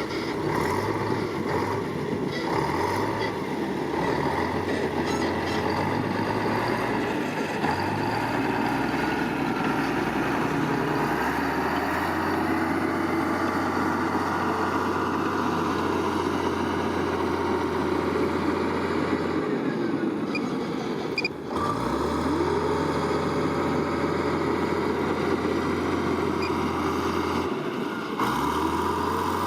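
Heavy diesel engine of construction earthmoving machinery running steadily. The low drone changes pitch a few times and briefly dips and climbs back up twice near the end.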